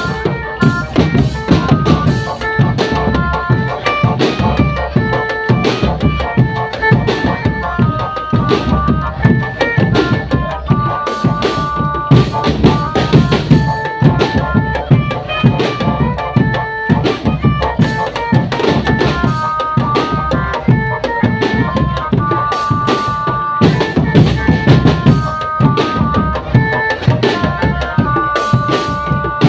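Marching drum band playing: bass drums and snare drums with rimshots beat steadily and densely under a repeating high melody of held notes from pitched band instruments.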